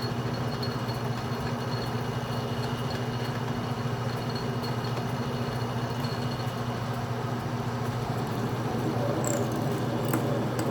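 Atlas metal lathe running steadily under power with a constant motor hum and a thin high whine, during a single-point threading pass in 304L stainless steel. Near the end an uneven rattling grows in over the hum.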